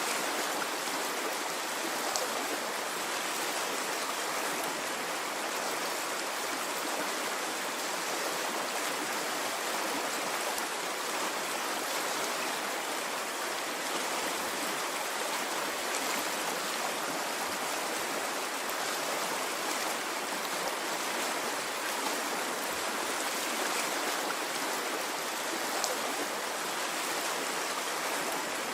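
Stream of water flowing steadily, an even rushing without surges.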